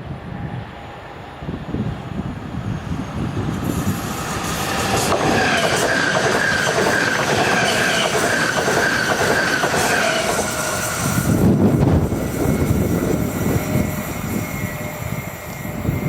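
A train passes, its wheels squealing in high, steady tones and clattering over the rails. It builds from about four seconds in, is loudest near twelve seconds, then fades.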